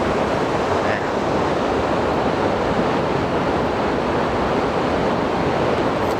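A waterfall's steady rushing roar close by, loud and unchanging.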